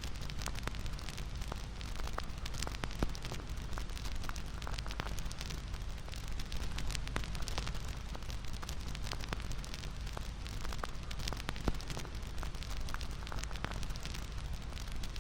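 Bonfire crackling: frequent sharp pops and snaps over a steady low rumble.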